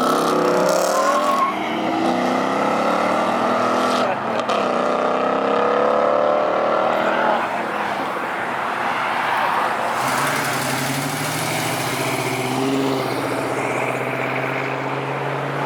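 Car engines accelerating as cars drive out: an engine note that climbs in pitch, dips briefly about four seconds in and climbs again, then a lower, steadier engine note from about ten seconds in.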